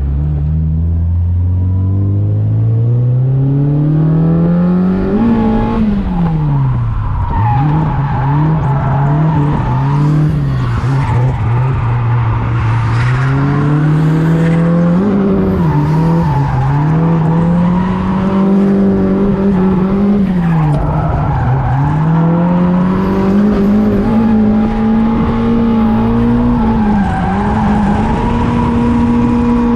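Car engine revving hard through a drifting lap. Its pitch climbs steadily over the first five seconds, then falls and rises again and again with the throttle, and the tyres squeal at times.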